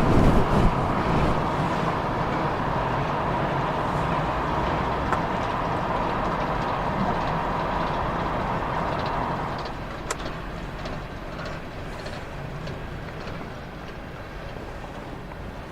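Freight train rolling slowly past, a steady rumble of wheels on rail with a faint high tone in it. It grows quieter about ten seconds in, with a single click.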